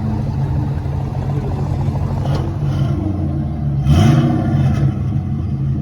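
A car engine running steadily, with one quick rev that rises and falls about four seconds in.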